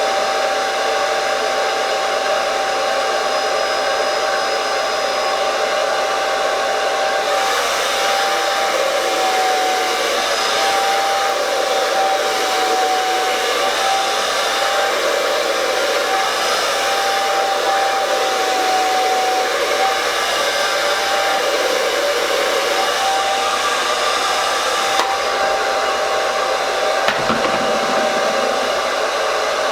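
Handheld hair dryer running steadily: a constant rush of air over a steady motor whine, with one brief knock near the end.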